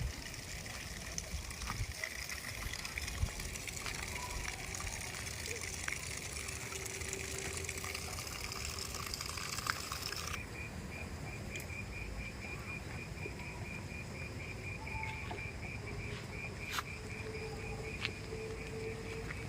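Outdoor ambience of running water, then an abrupt change about halfway to an insect trilling in fast, even pulses over quieter background noise.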